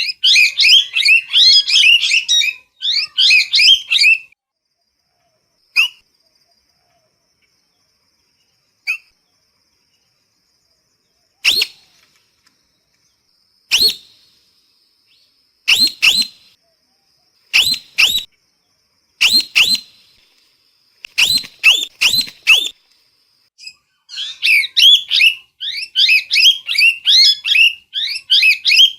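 Parrot calling: fast runs of short, high chirping calls at the start and again near the end. In between come single harsh calls every second or two, some in quick pairs or threes, over a faint thin steady whistle-like tone.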